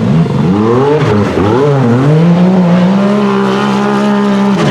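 Engine of a race UTV buggy revving hard: pitch swinging up and down in quick blips for about two seconds, then climbing and holding steady at high revs, with a sudden break near the end.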